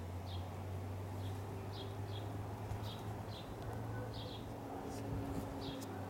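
Outdoor ambience: a small bird chirping over and over, short high chirps roughly every half second to second, over a steady low hum.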